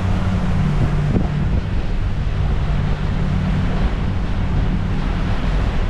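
Powerboat running steadily underway: a constant low engine drone under the rush of water along the hull, with wind buffeting the microphone.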